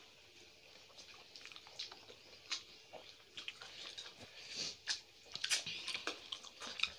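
Faint eating sounds of rice and curry eaten by hand: chewing and wet mouth clicks, sparse at first and more frequent from about halfway through.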